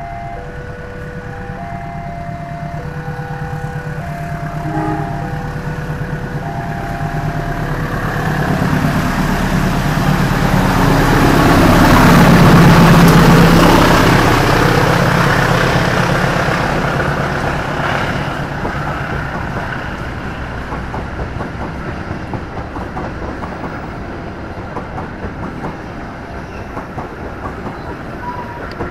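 A train passing on the line: its rumble and wheel clatter grow to a peak about halfway through and fade away. At the start, an electronic level-crossing alarm chimes in alternating tones, then is drowned out.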